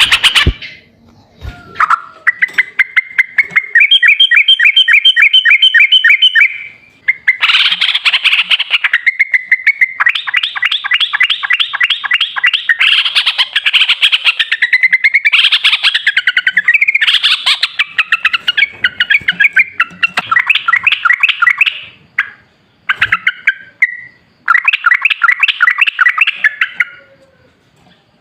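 Yellow-vented bulbul (trucukan) song: rapid chattering trills of quickly repeated notes, in several bouts with short pauses between them.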